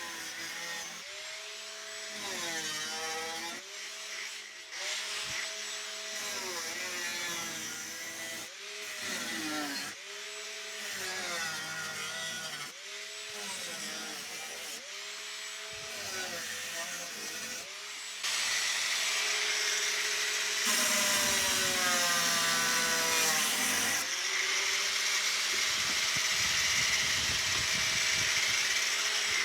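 Power tool cutting out rusted sheet steel from a car's rear wheel arch. It runs in short bursts with pauses, its whine sagging in pitch each time it bites and recovering, then cuts continuously and louder for the last ten seconds or so.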